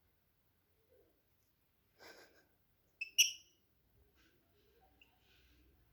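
A small bird gives two sharp, high chirps in quick succession about three seconds in, just after a brief rustle.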